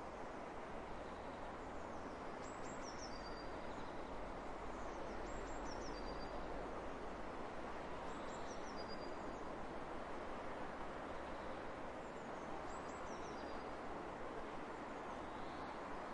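Steady wind rushing over open fields, with a small songbird repeating a short, high phrase of a few falling notes about every three to four seconds.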